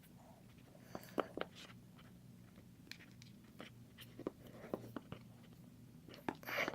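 Faint scattered clicks and taps of an iPad and small repair tools being handled on a workbench, with a short scraping rustle near the end.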